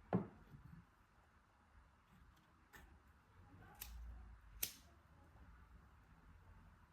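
Quiet room tone broken by a few sharp, short clicks: a loud one right at the start, then three more between about three and five seconds in.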